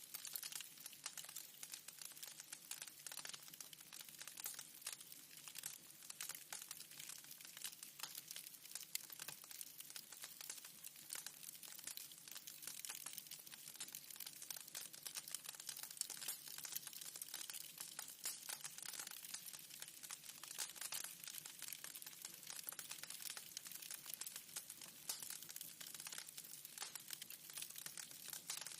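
Wood fire in a fireplace crackling: a dense, continuous scatter of small snaps and pops over a soft hiss.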